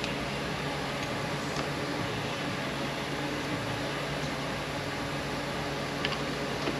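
Steady whirring hum of a fan or ventilation running, with a couple of faint light clicks near the end from work on transmission parts.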